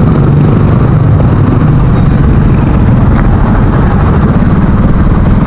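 Motorcycle engine running at low speed as the bike rolls slowly up to the curb, a loud, steady low drone.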